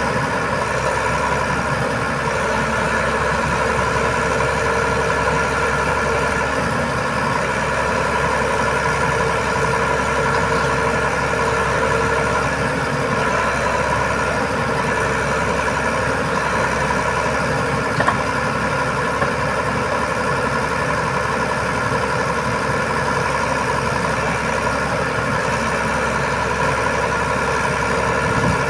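Diesel engine of an Iveco Trakker 380 boom truck idling steadily, with one faint click about eighteen seconds in.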